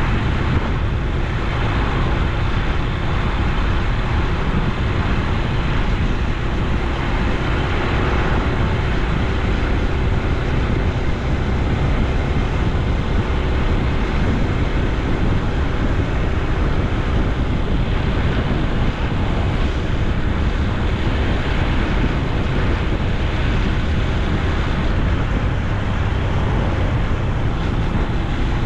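Honda Super Cub C125's single-cylinder four-stroke engine running steadily while riding, with wind rushing over the microphone.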